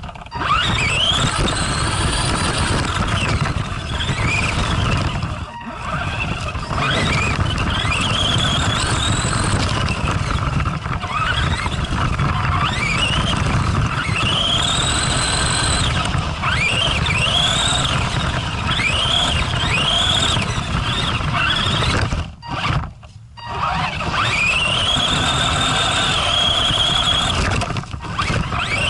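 Arrma Granite RC monster truck's electric motor and drivetrain whining, rising and falling in pitch with repeated throttle bursts, over a steady rumble of its tyres on icy ground. The sound cuts out briefly about five seconds in and again about three quarters of the way through.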